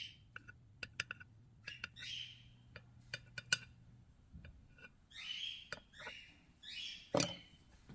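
Birds giving short chirping and squawking calls, among scattered light clicks and taps, with one louder knock near the end.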